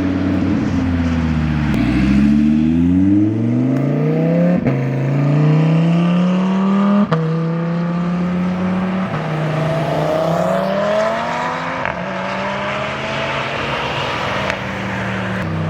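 A car engine accelerating hard and loud. Its pitch climbs, then drops sharply at each of several gear changes, and the car holds a steadier tone between pulls.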